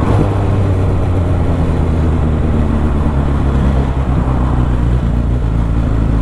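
Suzuki GSX650F's inline-four engine running steadily at low speed in traffic, heard from the rider's seat over a steady hiss of wind and road noise.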